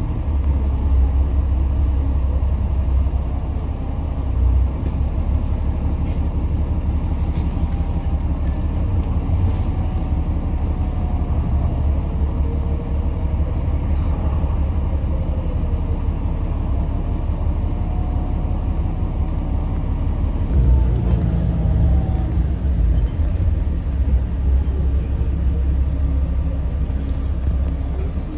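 Yutong ZK6128HG diesel city bus under way, heard from inside the passenger cabin: a steady heavy low rumble of engine and road, with a fainter whine that slowly rises and falls in pitch as the bus speeds up and slows down.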